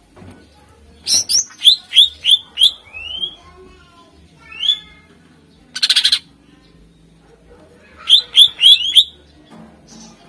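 Cucak ijo (green leafbird) singing: runs of quick, sharply rising whistled notes, broken about six seconds in by a short harsh rattling burst, then another quick run of rising notes near the end.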